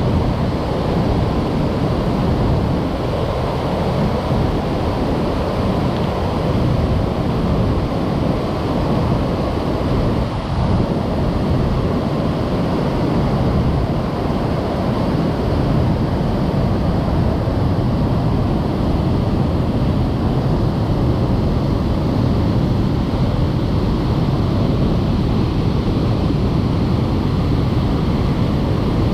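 Waterfall swollen by heavy rain: a loud, steady rush of falling water.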